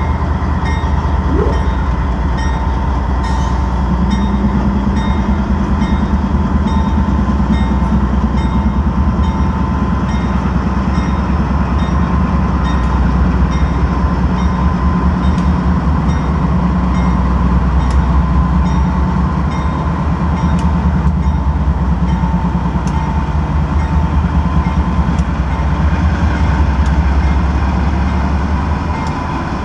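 Norfolk Southern intermodal freight train moving slowly as it gets going again from a stop: a steady, heavy low rumble of the train, with scattered faint clicks and a low hum that joins about four seconds in.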